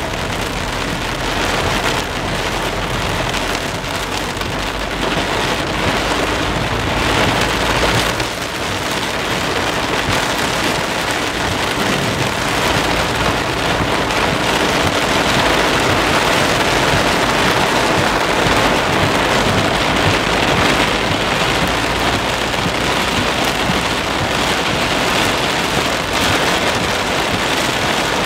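Heavy rain pelting a car's windscreen and roof, heard from inside the moving car as a dense, steady downpour that grows louder about eight seconds in.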